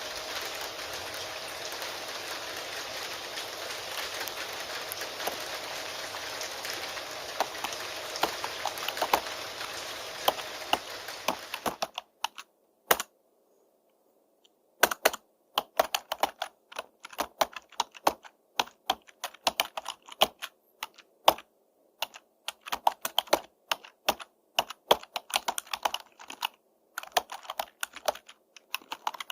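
Steady rain hiss under computer keyboard typing; about twelve seconds in the rain cuts off suddenly. After that only the keyboard is heard, typing in irregular runs of keystrokes with a few short pauses.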